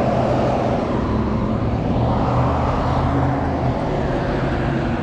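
Steady road traffic noise, with the low drone of vehicle engines under an even rush of tyres and air.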